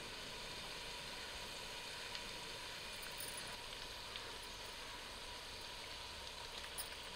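Chopped onions and tomatoes sizzling steadily in oil in a clay pot, with a few faint clicks.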